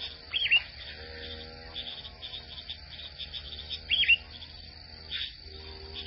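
Two short, high bird chirps, one shortly after the start and one about four seconds in. Under them runs a continuous cricket-like trill and soft steady background music.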